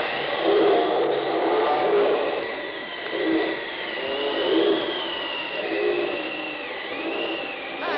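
Spooky sound effect from a Halloween sound-effects record: a wavering high wail that rises and falls over a churning, pulsing noise.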